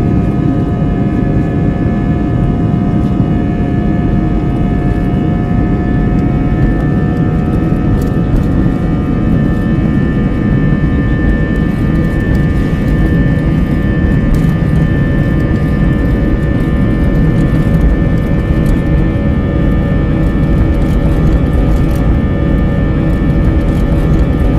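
Airbus A320's IAE V2500 turbofan engines running at take-off thrust: a steady, loud rumble with several steady whining tones over it, the metallic sound typical of the V2500.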